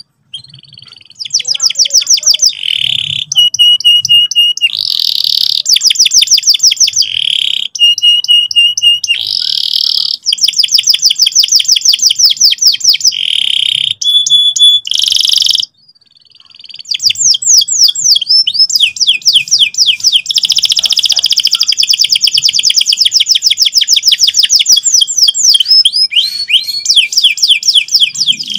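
Domestic canary singing a long, loud song of fast rolling trills and held whistled notes. The song cuts off suddenly about halfway through and starts again a second later.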